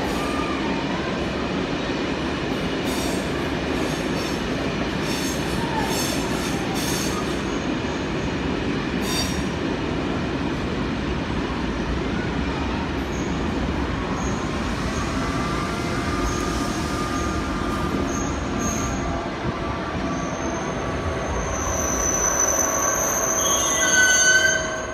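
Train running through the station: a steady rumble of wheels on the rails with a few sharp clicks, then high-pitched wheel squeal that sets in about halfway and grows louder to a peak near the end.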